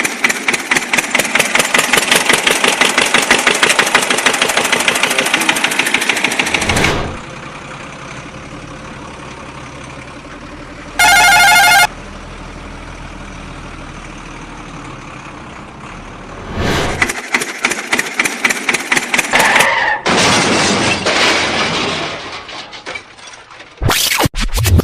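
Cartoon vehicle engine sound effects: a fast, even engine rattle for about seven seconds, then a quieter steady engine hum with a short warbling horn-like tone in the middle, then the fast rattle again.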